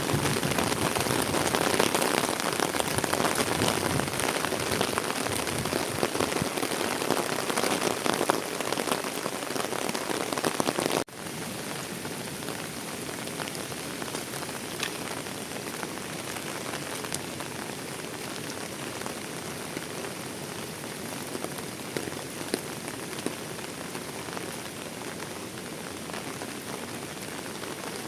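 Heavy rain falling, a dense steady hiss of drops with scattered sharper ticks. About eleven seconds in it suddenly drops in level and carries on as quieter, steady rain.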